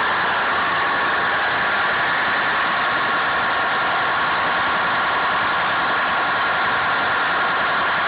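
Detroit Diesel 53 series two-stroke V8 marine diesel engine running steadily just after start-up, with an even, unchanging note.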